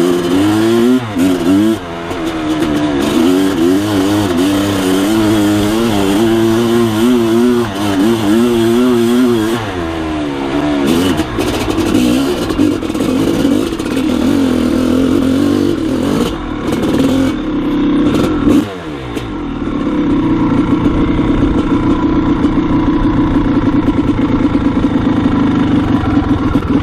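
Maico 660 two-stroke dirt bike engine under way, its pitch rising and falling with the throttle for the first ten seconds or so. After a brief drop in revs about two-thirds of the way in, it is held steady with the throttle pinned in second gear, climbing a hill.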